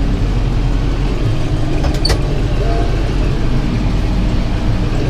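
Tractor engine running steadily while powering a round baler picking up hay. A brief sharp tick comes about two seconds in.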